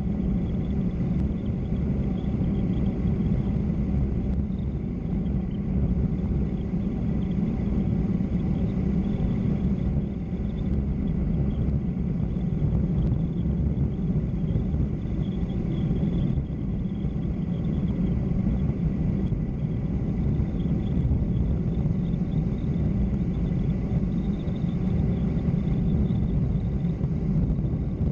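Steady low rumble of wind and road noise on the microphone while moving fast downhill, unbroken throughout.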